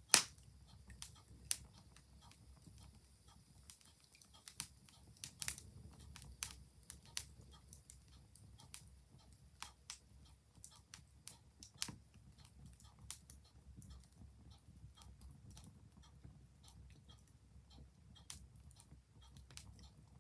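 Wood fire crackling, with irregular sharp pops over a low steady rumble and one loud pop right at the start. A clock ticks faintly in the background.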